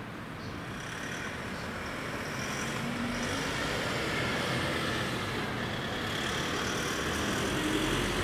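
A vehicle passing: a rushing noise that grows louder over the first few seconds and then holds, with faint high-pitched whines.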